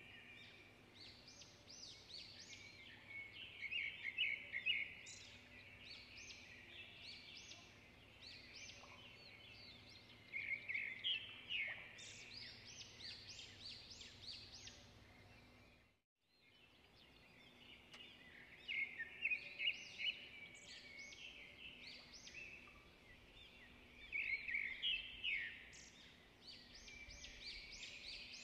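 Small songbirds chirping and singing in clusters of quick high phrases over a faint steady hum; the sound drops out for a moment about halfway through, then resumes.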